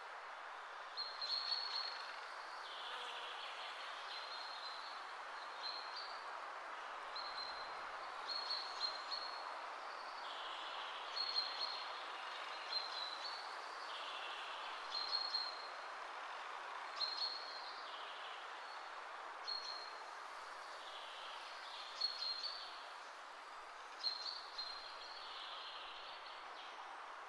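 Birds chirping in short, irregularly repeated high calls over a steady background noise.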